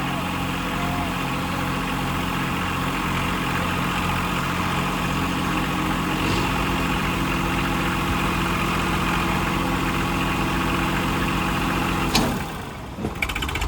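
Tractor engine idling steadily, its note shifting slightly about six seconds in. Near the end comes a sharp click, and the engine sound drops away for about a second.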